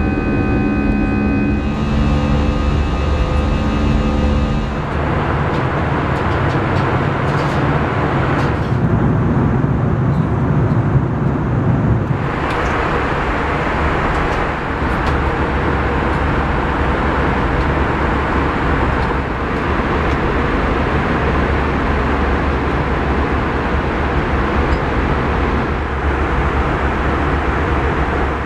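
Airbus A320 airliner heard from inside the cabin: a loud, steady roar of the jet engines and airflow. A few steady tones sound over it in the first five seconds.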